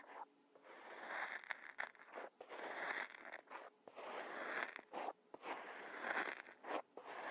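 Kinetic sand being worked close to the microphone: a run of grainy, crunchy scraping strokes, about one a second, with short pauses between.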